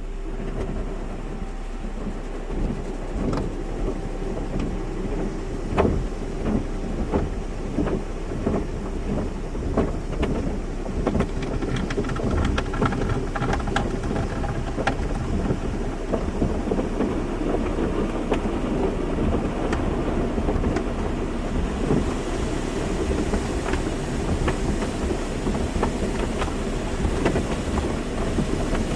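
Automatic car wash: water spraying and drumming on a car body over a low rumble and a steady machine hum, swelling a couple of seconds in.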